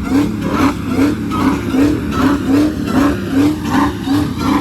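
Car engine revved hard, its sound pulsing evenly about three times a second.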